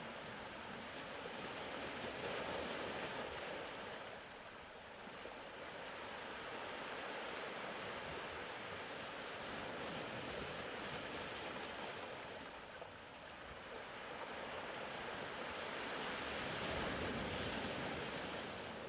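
Faint ocean waves, a soft wash of surf that slowly swells and fades every several seconds.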